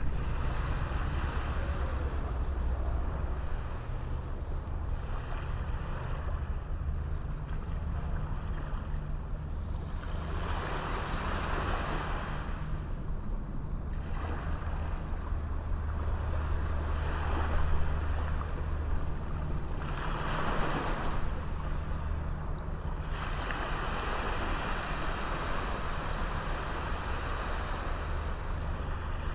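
Sea waves breaking and washing up on a small beach, swelling and falling back every few seconds, over a steady low rumble of wind on the microphone.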